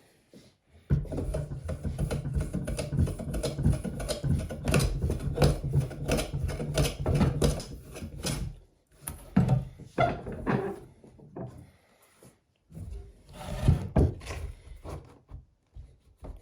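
A driftwood log being worked with a tool, most likely cut or flattened: about eight seconds of continuous scraping strokes, then shorter separate bursts of the same work.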